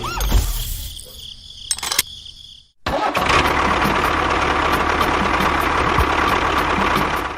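A vehicle engine sound: mechanical running with low thumps that cuts off abruptly a little under three seconds in, then a louder, steady running sound with a regular ticking.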